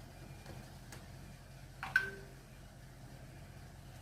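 Quiet room with a faint steady hum, broken once about two seconds in by a single sharp click or tap.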